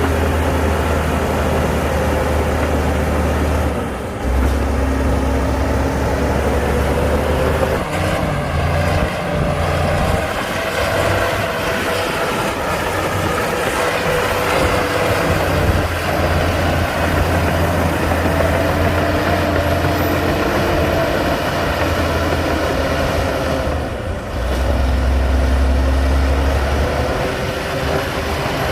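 Komatsu D60-P bulldozer's diesel engine running hard as the dozer works, with a wavering whine above the engine note. The sound breaks off and changes abruptly about four, eight and twenty-four seconds in.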